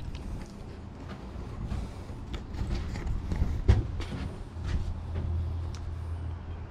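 Scattered clicks and knocks over a low steady hum, with one sharper knock a little past the middle.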